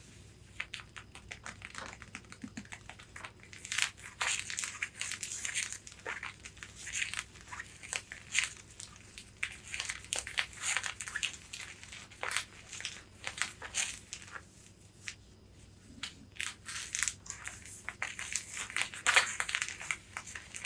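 Long fingernails tapping and scratching on a corset bodice, a dense run of crisp clicks and scratchy strokes on the fabric. It is sparse and soft at first, then busier from about four seconds in, with a short lull after the middle.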